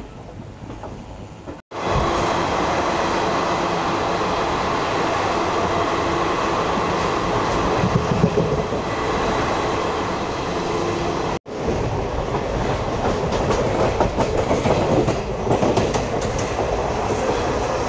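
Express passenger train running at speed, heard from on board: a steady rumble of wheels on rail with the clickety-clack of the coaches. The sound cuts out for an instant twice, and it is louder after the first cutout about two seconds in.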